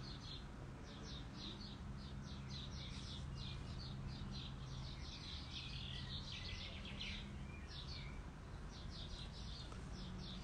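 Wild songbirds chirping and twittering: many quick, high chirps in rapid runs, over a faint steady low hum.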